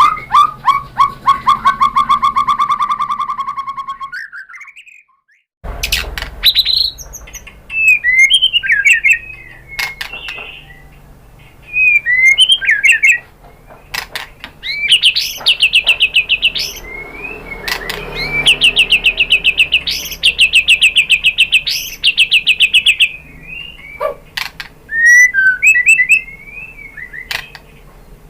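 White-rumped shama (murai batu) singing loudly: a fast trill of repeated notes, a short silence about four seconds in, then varied whistled phrases and long, very rapid runs of repeated notes.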